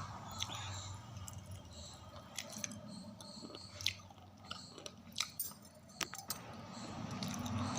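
Close-up crunching and chewing: irregular sharp crackles and snaps of something hard being bitten and chewed.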